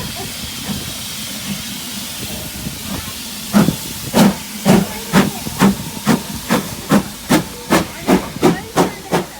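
Steam locomotive hissing steam, then starting off: exhaust chuffs begin about three and a half seconds in and come steadily quicker as it gathers speed.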